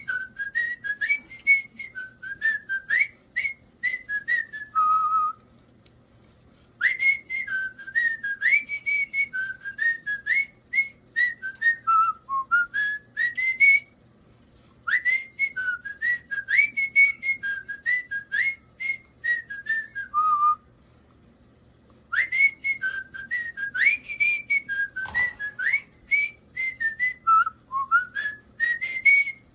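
A person whistling a tune, four phrases of quick notes with short pauses between them.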